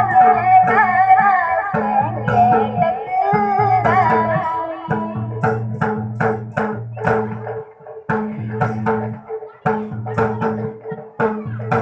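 A girl singing a folk song to dholak, khanjri and chimta accompaniment; her voice stops about four seconds in and the drum, tambourine and tongs carry on with a quick, steady beat.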